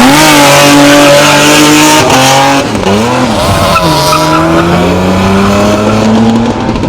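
A car's engine revved hard and held high, dropping twice and climbing again, with tires squealing as the car pulls away hard.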